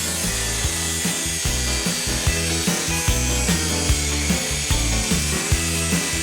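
A power tool cutting through the truck cab's sheet metal, a steady harsh hiss, over background music with a beat.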